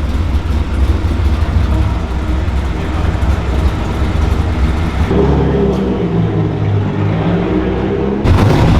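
Car engine running with a low rumble; a pitched engine note comes in about five seconds in, and near the end the sound jumps abruptly louder.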